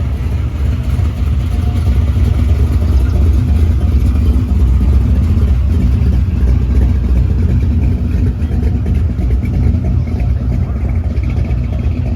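A car engine running steadily and loudly, with a deep, low exhaust rumble.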